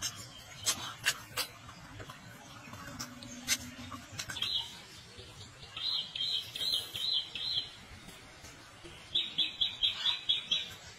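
A small bird chirping in three quick runs of short, high notes, starting about four seconds in. Before that, a few sharp mouth clicks and smacks from someone eating.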